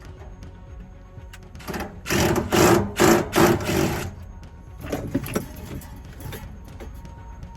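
A small motor-driven tool running in several short bursts, one after another, with a shorter second group a little later, over steady background music.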